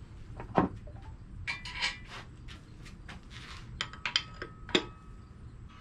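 Metal engine parts and hand tools clinking and clanking as an engine is taken apart. There is a string of short knocks and clinks, with a sharper clank about half a second in and another near the end.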